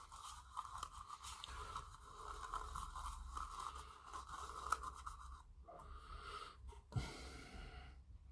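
Mobile phone going off: a faint steady tone that breaks off briefly in the middle and stops near the end, with a few light clicks of handling.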